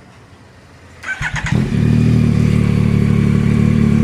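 Yamaha Tracer 9 GT's 890 cc crossplane inline-three engine started about a second in: a brief crank, then it catches and settles into a steady idle through an aftermarket Akrapovič-copy slip-on exhaust.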